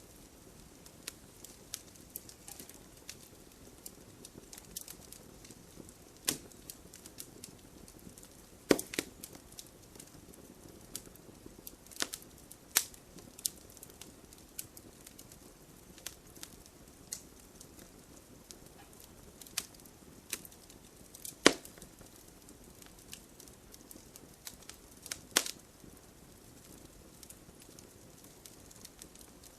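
Wood campfire crackling: firewood snapping in irregular sharp pops over a faint low hiss of the flames, with a few louder cracks, the loudest about 21 seconds in.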